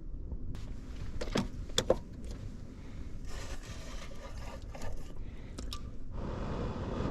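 Steady low rumble of strong wind buffeting a small parked car, with two sharp clicks about a second and a half in and bursts of rustling hiss from things being handled inside the car.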